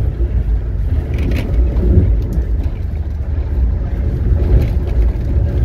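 Amtrak Northeast Regional train running at speed, heard from inside the coach as a steady low rumble with a few faint clicks.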